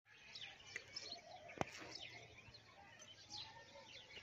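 Faint chirping of birds, many short calls overlapping, with one sharp click about a second and a half in.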